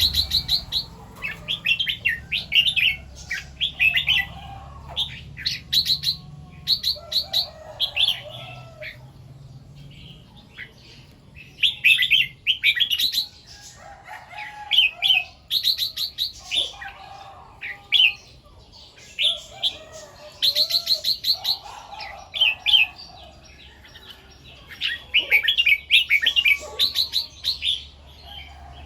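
Red-whiskered bulbul singing short, bright warbled phrases over and over, often doubling or tripling a phrase. The bursts come every second or two, with brief pauses between them.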